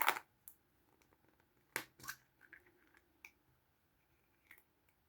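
Small plastic Kinder Surprise toys and their packaging being handled: a brief crinkly, crushing burst at the start, then two sharp clicks about two seconds in and a few light taps and ticks.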